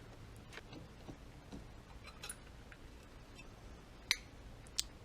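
Light clicks and taps of small parts and tools as a motorcycle carburettor is taken apart, scattered and faint, with two sharper clicks about four and nearly five seconds in, over a low steady hum.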